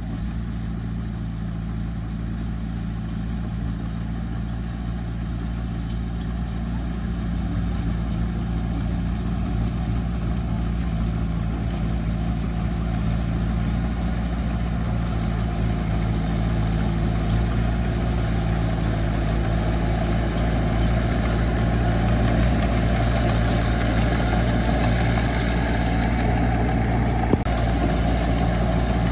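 A heavy machine's diesel engine running steadily at a constant pitch. It grows gradually louder from several seconds in, with a single sharp knock near the end.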